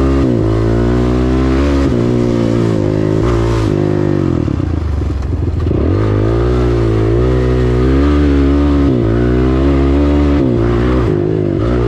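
Dirt bike engine running at low to moderate revs, its pitch rising and falling as the throttle is worked, with a brief blip around five seconds in.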